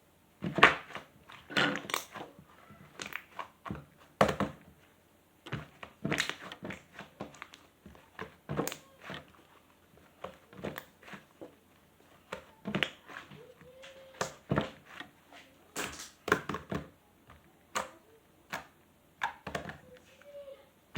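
Hand-played slime being pressed, stretched and squished, giving irregular sticky clicks, crackles and soft thunks.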